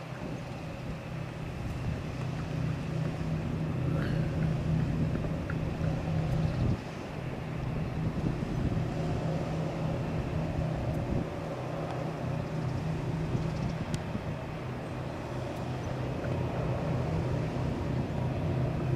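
Boeing 777-200's twin jet engines at takeoff power during the takeoff roll, a steady low rumble that dips briefly about seven seconds in and then slowly grows louder.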